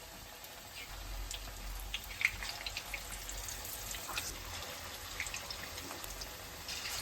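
Onion pakoras frying in hot oil, a steady sizzle with scattered small crackles and pops.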